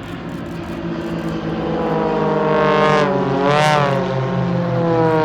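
Formation of Extra 300 aerobatic planes flying past low. Their piston engines and propellers drone louder, then drop in pitch as they pass overhead about three and a half seconds in.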